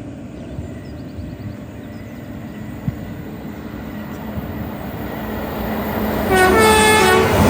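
An approaching train's rumble growing steadily louder, then the train's horn sounding one blast about a second long about six seconds in.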